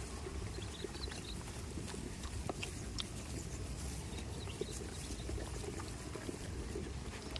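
Goats moving about: scattered small clicks and knocks over a steady low rumble.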